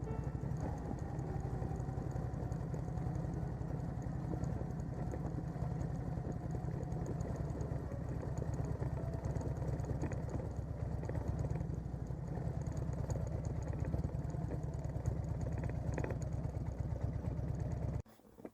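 Harley-Davidson motorcycle engine running steadily while riding, heard as a pulsing rumble from a camera mounted on the bike. It cuts off suddenly near the end.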